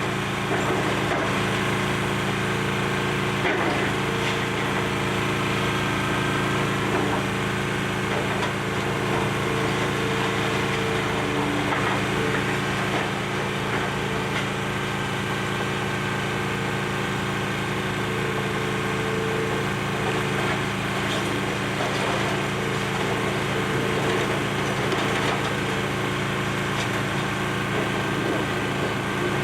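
Excavator's diesel engine running steadily, with scattered cracking and crunching of a building being torn down and now and then a held whine from the hydraulics.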